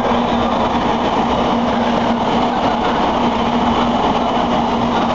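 Shinkansen trains running through the station: a steady rushing rumble of wheels on rail with one continuous low hum.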